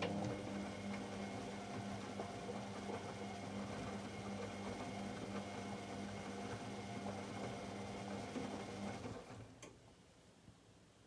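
AEG Electrolux Lavamat L74810 washing machine running: a steady motor hum over a rushing sound, which stops about nine seconds in, followed by a single click.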